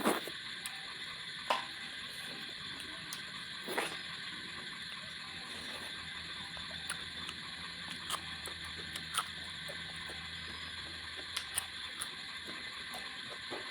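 Close-miked eating sounds: chewing and sharp, irregular mouth clicks as a person eats fish curry with rice, over a steady hiss.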